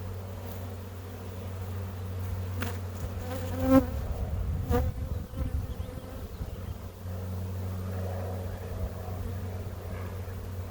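Honeybees buzzing in a steady hum around an open hive. A couple of short knocks come near the middle.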